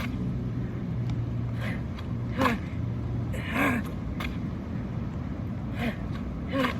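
A man's short, hard exhales and grunts of exertion during a bodyweight workout, about six in quick succession, over a steady low hum.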